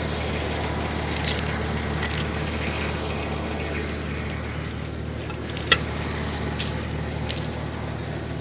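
Tractor engine idling steadily while it warms up in the cold, with a few light clicks about halfway through.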